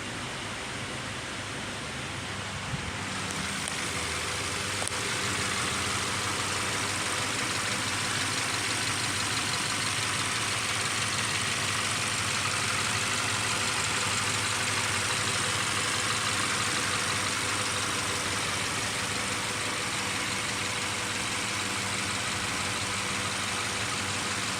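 Subaru XV's flat-four boxer engine idling steadily, growing a little louder a few seconds in.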